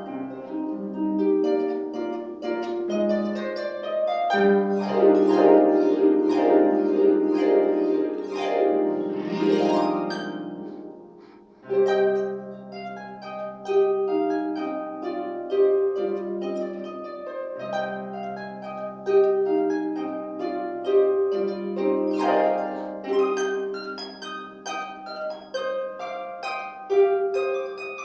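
Harp solo: plucked chords and melody with sweeping glissandi. The sound fades briefly about eleven seconds in, then repeated plucked bass notes and melody resume.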